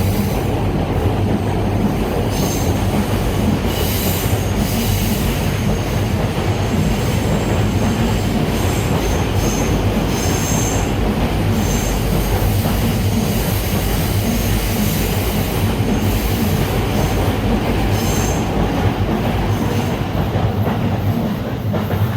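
Electric train running on rails, a steady loud rumble with brief high-pitched wheel squeals coming and going, easing off near the end.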